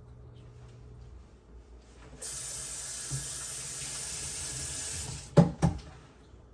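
Water running from a kitchen tap for about three seconds, starting and stopping abruptly, followed by two sharp knocks.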